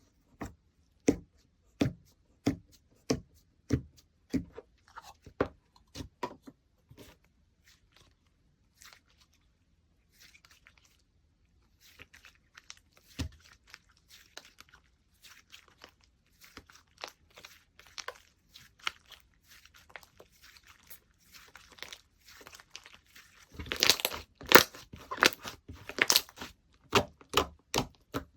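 Slime being squeezed, poked and stretched by hand, making sharp popping clicks about every half second at first, then softer crackling, and a louder run of crackly, crinkly squishing near the end.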